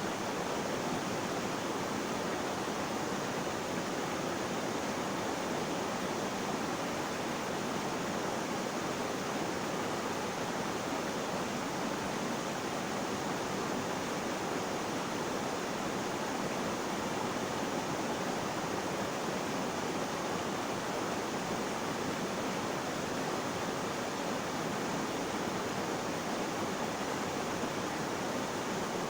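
Flowing water rushing steadily, an even hiss with no changes.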